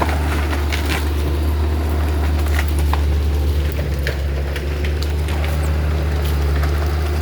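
John Deere 848H skidder's diesel engine running steadily under load as it pushes brush and debris aside, with scattered sharp cracks and snaps over the drone.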